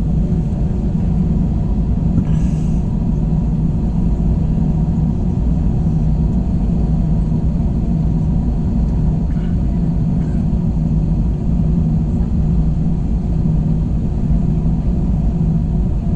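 Steady engine drone and rumble inside the cabin of an Airbus A321 airliner, with a low hum running underneath.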